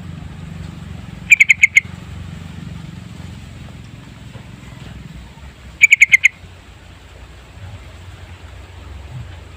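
Sooty-headed bulbul singing: two short bursts of about five quick, bright notes each, just over a second in and again about six seconds in, over a low steady rumble.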